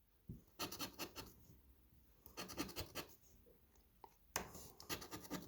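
Faint scraping of a coin or scraper across a scratch-off lottery ticket, rubbing off the coating: three short runs of quick strokes.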